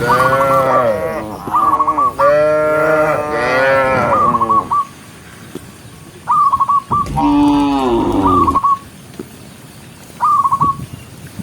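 Cattle mooing: several long moos with bending pitch in the first four seconds, and another from about seven to eight and a half seconds in. Short high chirps repeat in the gaps between them.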